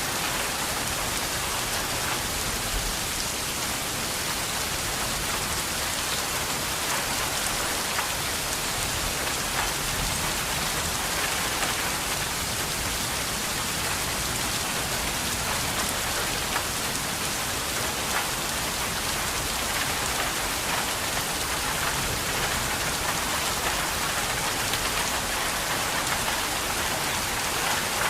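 Steady rain falling and pattering on a surface, an even hiss with scattered drop ticks and no change in strength.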